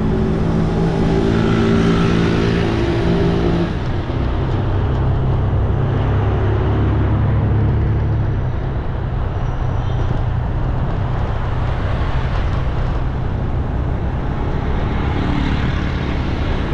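Street traffic: motor vehicle engines running past, with a steady engine hum for the first few seconds, then a deeper rumble swelling and fading in the middle, over continuous road noise.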